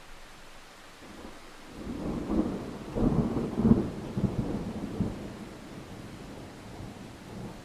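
A clap of thunder rolling over steady rain: it swells about two seconds in, is loudest a second or so later, and dies away by about five seconds.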